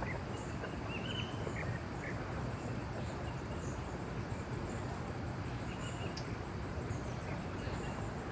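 Forest ambience: a steady background hiss with insects buzzing high and a few faint, short bird chirps.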